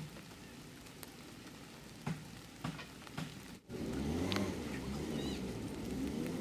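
Steady rain hiss with a few sharp drips or knocks. About three and a half seconds in it cuts off, and a motor vehicle's engine takes over, running steadily louder with its pitch rising and falling.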